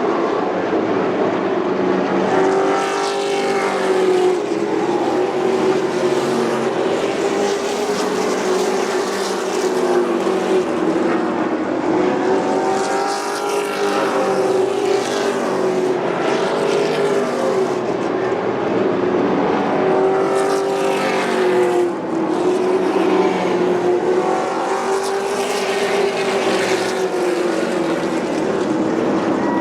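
Race trucks' engines running laps on a short oval track, the pitch repeatedly rising and falling every few seconds as they pass.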